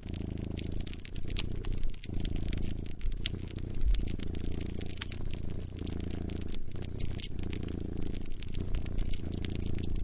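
A cat purring close up, the low purr swelling and easing about every two seconds with its breathing. Sharp pops and crackles of a wood fire sound over it.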